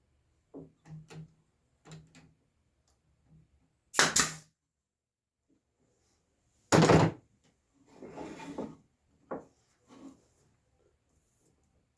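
Two loud brad nailer shots about three seconds apart, driving 1-inch brads into a mitred frame corner, amid light taps and knocks of the wood pieces being handled.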